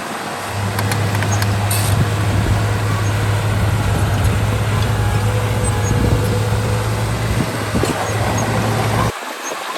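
Heavy diesel earthmoving machine running steadily under load, with a strong low engine hum. It cuts off abruptly about nine seconds in.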